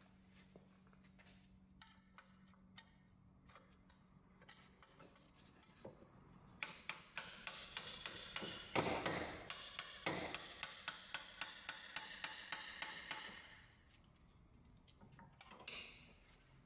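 Ratchet wrench clicking in a rapid, even run for about seven seconds, starting about six and a half seconds in, with a few light tool clicks before it.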